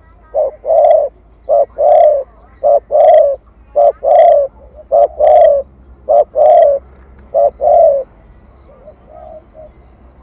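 Spotted dove cooing in the 'thổ thúc gù' style: about seven phrases, each a short coo followed by a longer one, roughly once a second, stopping about two seconds before the end. The call is the kind keepers play to rouse and train a decoy dove.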